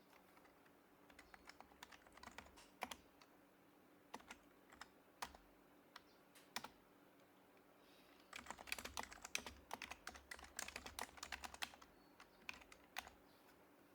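Typing on an HHKB Professional HYBRID Type-S keyboard with quiet Topre keys: scattered keystrokes and a few single taps, then a quick run of fast typing past the middle, and a few last taps near the end.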